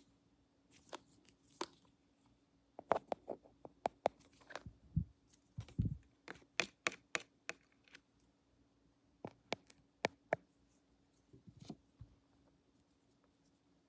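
Irregular clicks, taps and scratches of barber tools being handled, with a couple of duller thumps about five to six seconds in.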